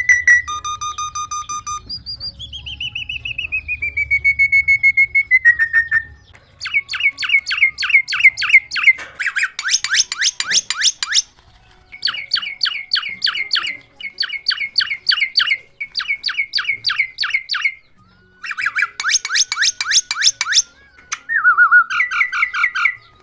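Bird calls: a few drawn-out whistled notes that slide down in pitch, then bursts of rapid repeated chirps, each burst lasting a second or two with short breaks between them.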